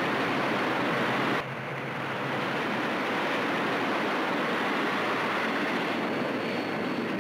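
Dubbed-in train running sound: a steady rushing rumble of a moving train. About a second and a half in it drops suddenly, turns duller, and then slowly builds back up.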